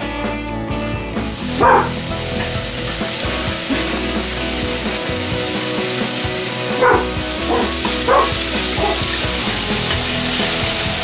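Sliced hot dogs sizzling in a hot frying pan, a steady hiss that starts about a second in as they hit the pan. A dog barks once about two seconds in and about four more times a little past the middle.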